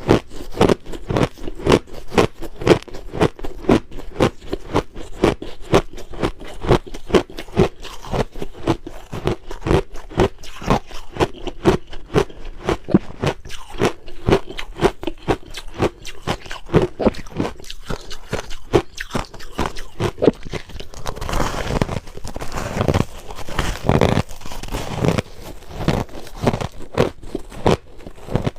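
Close-miked crunching of crushed ice being bitten and chewed, a rapid run of crisp crunches about three to four a second, with a denser, scratchier stretch about two-thirds of the way in.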